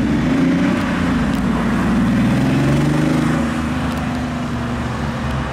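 Classic Porsche 911's flat-six engine accelerating away, its pitch rising, then easing off about three and a half seconds in, over passing traffic.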